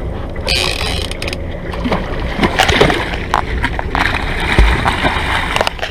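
Water splashing and sloshing against the side of a boat as a hooked fish is gaffed alongside, with scattered sharp knocks.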